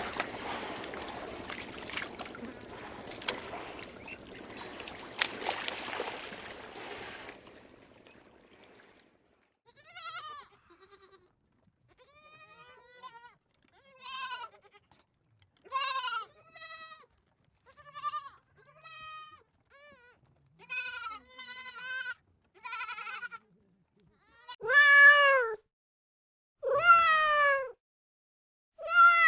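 A rushing noise that fades out over the first several seconds, then a cat meowing over and over in short calls that grow louder near the end.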